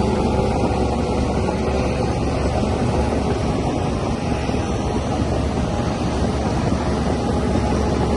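Diesel engine of a DH17C3PRO bulldozer running steadily.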